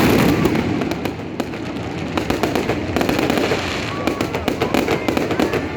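Fireworks crackling: a dense run of many quick pops, thickest in the middle.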